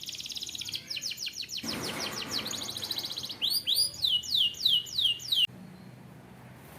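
Canary singing: a fast trill of rapidly repeated high notes, then a slower run of whistles that each fall in pitch, cutting off suddenly.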